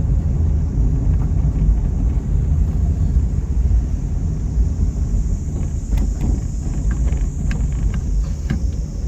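Car on the move, a steady low engine and road rumble, with a few faint ticks in the second half.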